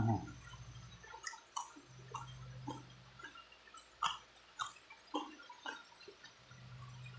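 A person eating chicken feet: chewing, with a string of short mouth smacks and clicks, roughly two a second.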